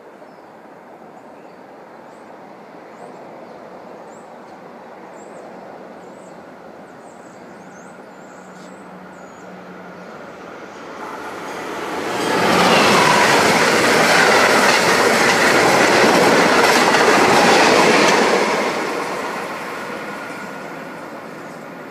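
Amtrak HHP-8 electric locomotive and its passenger train passing by: the rumble of wheels on rail builds about eleven seconds in, stays loud for about six seconds, then fades away.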